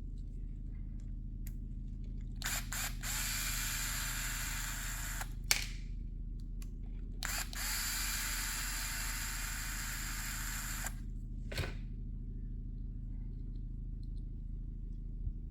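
Small electric screwdriver running twice, about three seconds each time, backing out the screws of an RC car's differential housing, with a sharp click after each run.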